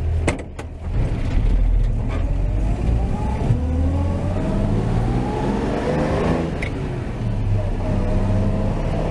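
A 1949 Chevy 3100's 235 inline-six with dual exhaust, heard from the moving truck. Sharp clicks and a short dip come near the start, then the engine pulls with its pitch rising for several seconds, eases off around seven seconds in and settles into a steady run.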